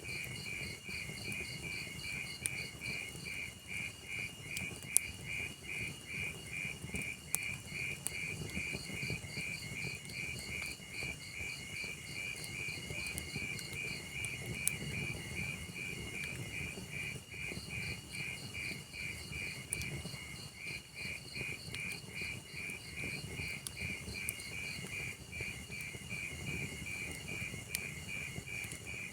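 Cricket chirping steadily in a fast, even rhythm, over the low rustle of a log fire, with a few sharp crackling pops from the burning wood.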